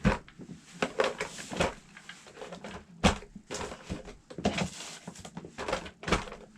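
Handling noises from unboxing: rustling packaging and a run of light knocks and clatters, the sharpest right at the start and about three seconds in.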